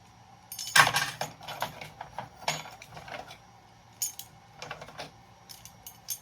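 Small metal scrap pieces clinking and rattling as they are handled and tossed together, in several bursts, the loudest about a second in.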